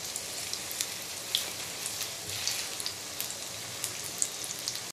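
Egg-coated chicken and potato kababs shallow-frying in hot oil in a pan: a steady sizzle with scattered small pops and crackles.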